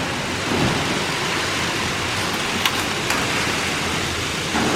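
Battery-powered Plarail toy trains running on plastic track, a steady whirring and rattling of their small motors and wheels, with three short clicks a little past the middle.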